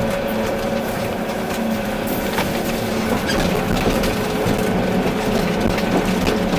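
Volvo EC380D excavator's diesel engine running steadily, with a few light knocks now and then.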